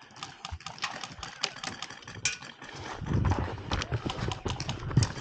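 Airsoft guns firing in a skirmish: sharp, irregular clicks and snaps, several a second. A low rumble joins about three seconds in.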